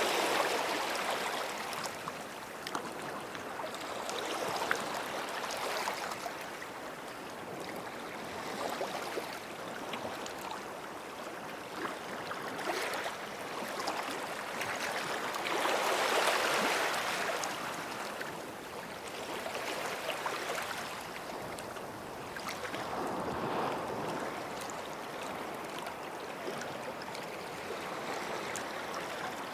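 Small sea waves washing in at the water's edge: a soft rush of surf that swells and fades every few seconds, the biggest surge about halfway through.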